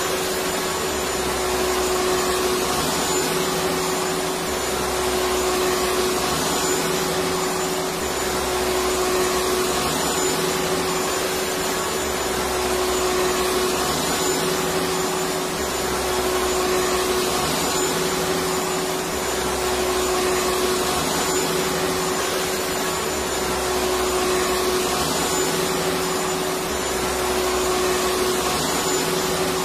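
Electric vacuum cleaner running steadily: a constant whirring rush with a steady hum, its low end pulsing gently about every four seconds.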